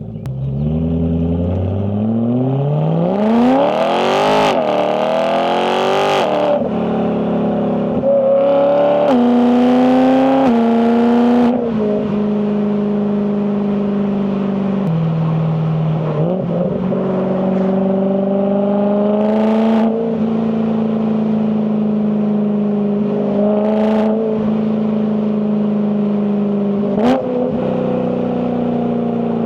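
BMW E92 M3's S65 V8 engine accelerating hard, its pitch climbing through several quick DCT upshifts in the first few seconds. It then settles into steady cruising revs, with a couple of sharp cracks near the end.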